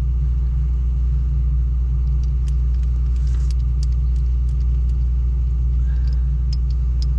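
Heavy construction equipment's diesel engine running steadily at idle, a constant deep rumble, with a few light clicks and taps over it.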